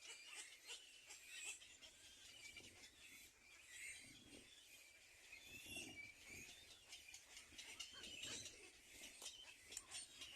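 Faint, continuous high-pitched chirping and twittering of small birds, with a few soft low thumps in the middle.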